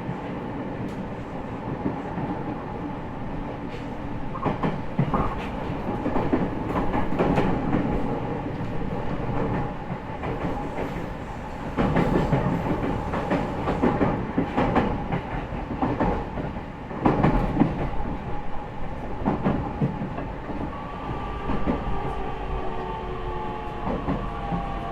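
Running sound inside the motor car of a JR E501 series electric train, with wheels clacking over rail joints at irregular intervals. About 21 seconds in, the Toshiba IGBT inverter's several-toned motor whine sets in, typical of the train starting to brake for its next stop.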